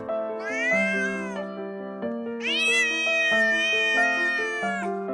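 Domestic cat meowing twice over background music: a short meow that rises and falls, then a long drawn-out meow that holds and falls away at the end.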